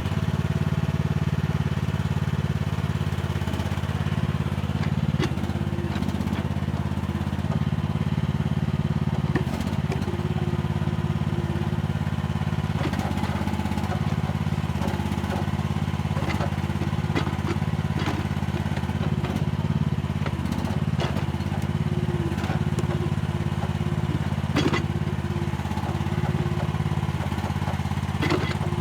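Compact excavator's engine running steadily under load, with scattered sharp clanks and knocks as the bucket scrapes and digs soil.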